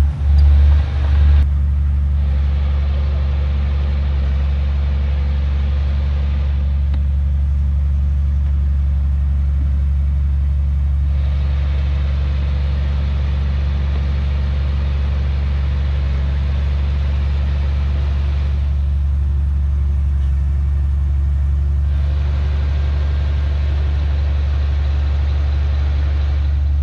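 Heavy earthmoving diesel engine running steadily with a deep, constant drone, with a couple of brief louder swells right at the start.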